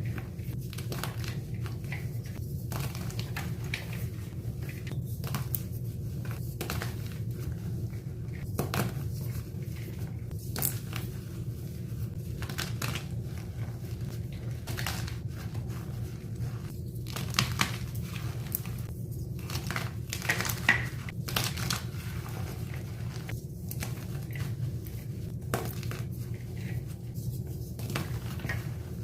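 Blocks of dyed gym chalk being crushed and crumbled, with irregular crunches and crackles, over a steady low hum.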